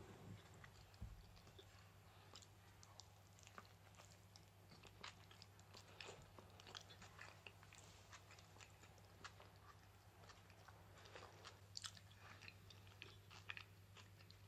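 Faint chewing of toast topped with potato salad: many soft, irregular crackles and clicks of bread and vegetables being bitten and chewed, over a steady low hum.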